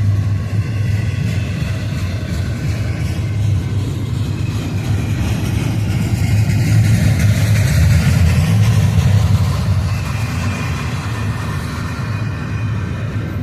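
Intermodal freight train's cars rolling past: a steady rumble of wheels on rail, swelling louder in the middle, with a faint high squeal over it.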